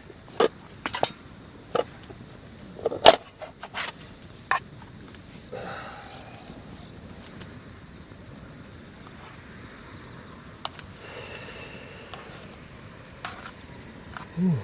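A steady, high-pitched outdoor insect chorus. Several sharp clicks and knocks come in the first few seconds, and a short dull thud comes near the end.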